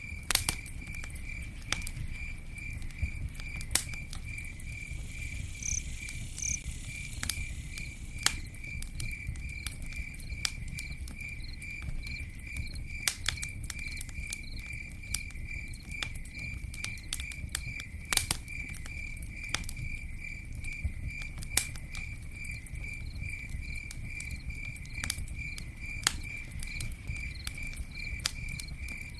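Campfire crackling, with sharp pops scattered irregularly over a low rumble. A steady, high chirp repeats about twice a second behind it.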